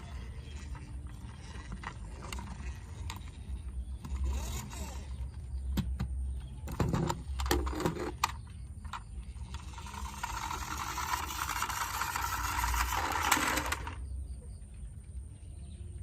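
Toy trucks being handled: scattered clicks and knocks, then about four seconds of steady hissing, rushing noise that stops abruptly, over a low rumble.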